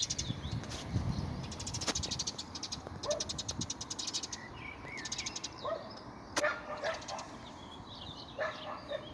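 Birds singing: rapid high-pitched trills in stretches of a second or two, with short curving chirps in between. A few short, sharp louder calls stand out over the birdsong in the second half.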